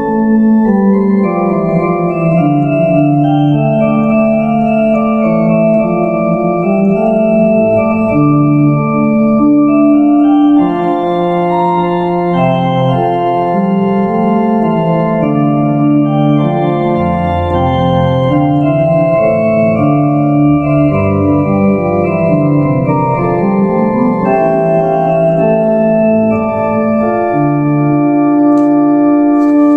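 Organ playing Baroque music: held notes in several voices moving in slow, steady counterpoint.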